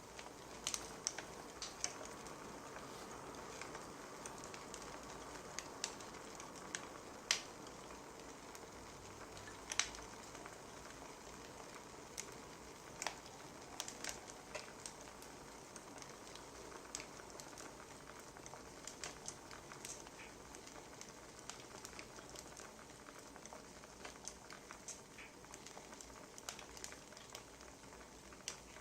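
Crackling wood fire: a steady soft hiss broken by irregular sharp pops and snaps of burning firewood, some of them louder.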